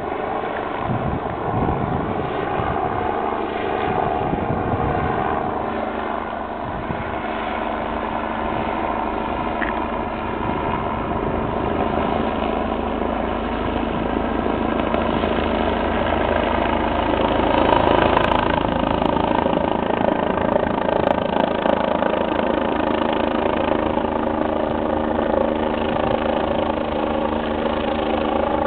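Twin-turbine Eurocopter EC 145 rescue helicopter running, a steady turbine whine over rotor noise, growing somewhat louder as the helicopter approaches to land.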